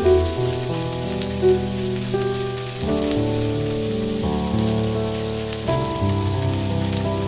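Shrimp sizzling in hot oil in a frying pan, a steady fine hiss. Under it plays background music of held chords that change every second or two.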